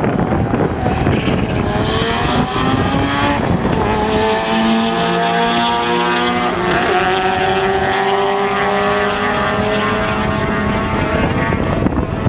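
Race car engine accelerating hard at full throttle through the gears on a drag-strip pass, its pitch climbing and then dropping back at each shift. It is loud throughout and cuts off abruptly at the end.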